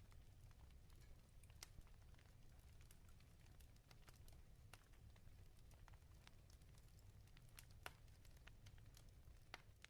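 Wood fire crackling in a fireplace, faint: scattered sharp pops and snaps over a steady low rumble, with a slightly louder pop near the end.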